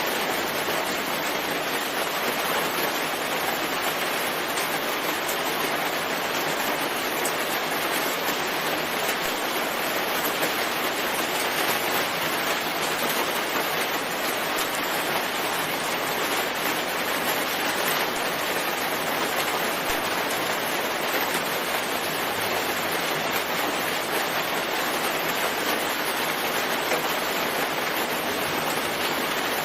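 Steady, heavy rain: an even, constant hiss with no breaks or distinct drops standing out.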